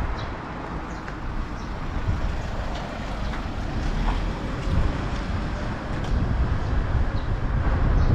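Strong gusty wind buffeting the microphone, a low rumble that swells and eases and grows louder near the end.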